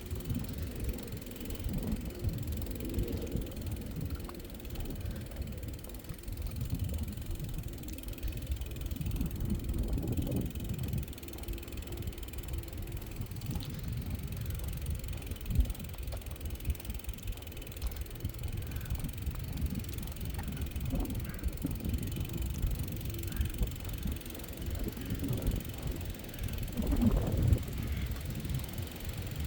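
Bicycle being ridden along a path: a steady, uneven low rumble from the tyres, with wind on the phone's microphone.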